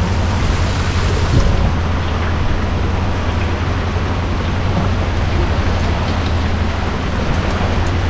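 Heavy rain squall at sea: a steady, loud hiss of rain pouring down, with a constant low rumble beneath and a few faint drop ticks.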